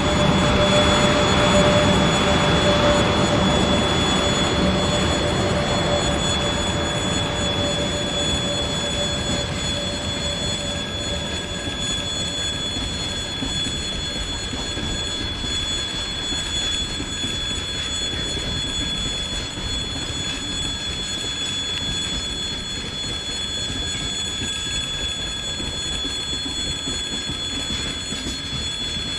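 A long freight train rolling past at a level crossing: a dense, steady rumble of wheels on rail, with several steady high-pitched tones ringing over it. It is loudest in the first few seconds, eases off over the next several seconds, then holds steady.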